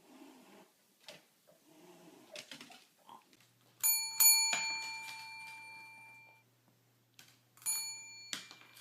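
A bell chime rings twice, about four seconds apart, each time with two quick strikes. The first rings on for about two seconds before fading.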